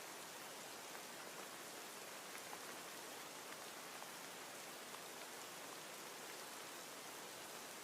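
Steady, faint rain falling, an even hiss with small scattered drop ticks.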